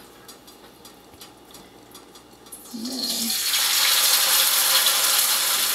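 Mung bean pancake batter spooned into hot oil in a cast-iron skillet begins frying with a loud, steady sizzle about three seconds in, after a quieter start.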